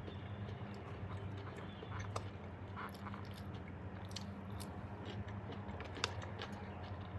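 A person chewing and biting food close to the microphone, with small crunchy clicks and a sharper one near the end, over a steady low hum.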